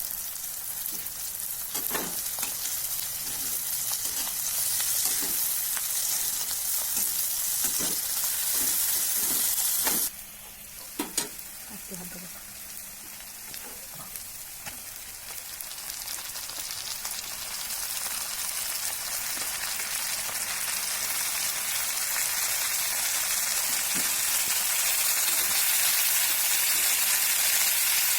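Food sizzling in hot oil in a pan, with short scraping stirring strokes. The sizzle drops off suddenly about ten seconds in, then slowly builds back up and ends louder.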